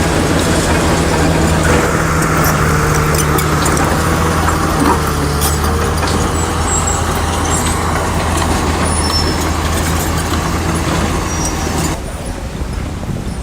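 Heavy diesel engine of earthmoving machinery running steadily, with scattered sharp metallic clanks. The sound drops in level shortly before the end.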